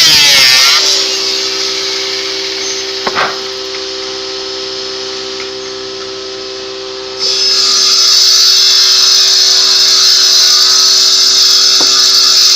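Power tool motor running with a steady whine; about seven seconds in a loud hiss cuts in suddenly and holds.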